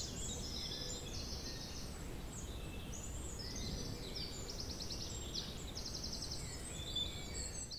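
Woodland birdsong: several high trills of rapid repeated notes and short chirps, over a low, steady background rumble.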